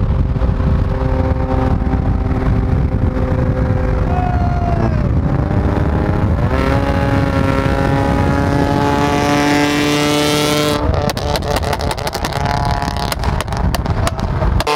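Car engine running at highway speed under road and wind rush. The engine note holds steady, dips about four seconds in, then climbs again as it pulls. Rapid fluttering wind buffeting joins in from about eleven seconds in.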